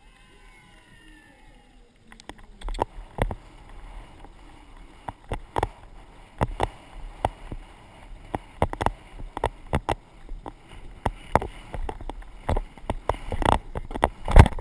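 Irregular knocks and thuds over a rushing noise, from a GoPro being carried while riding a horse, starting about two seconds in and loudest near the end.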